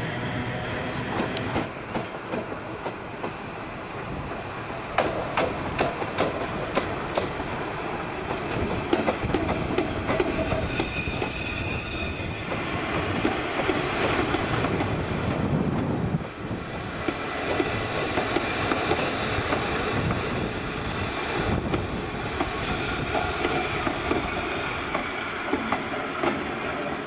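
Locomotive-hauled passenger coaches running on the line, wheels clicking over the rail joints with a steady rumble. A high wheel squeal comes from about ten to twelve seconds in.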